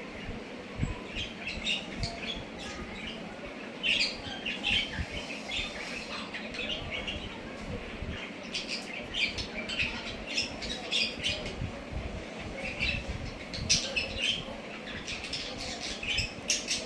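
Budgerigars chattering: short, high squawks and chirps in irregular clusters, busiest about four seconds in, between nine and eleven seconds, and near the end, with a few dull low thumps beneath.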